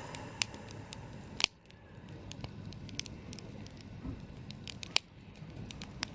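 Wood campfire crackling, with irregular pops and snaps over a low steady hiss of burning. Two loud sharp snaps stand out, about a second and a half in and again about five seconds in.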